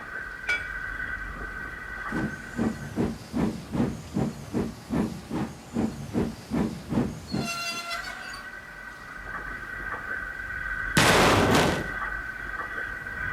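Steam locomotive chuffing in a steady rhythm of about three puffs a second, then a short whistle blast. A few seconds later comes a loud hiss of released steam.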